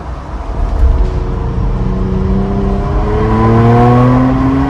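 Exhaust of a turbocharged Porsche with a muffler delete under hard acceleration, loud: a low raspy rumble for the first couple of seconds, then the engine note climbs steadily in pitch as the revs rise.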